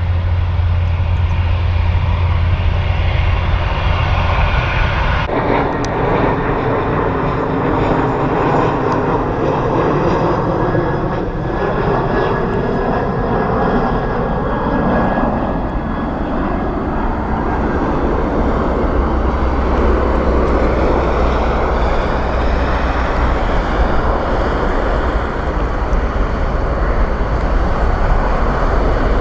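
Jet airliner's engines passing close by, with tones that sweep down in pitch as it goes past, giving way to a steady rumble.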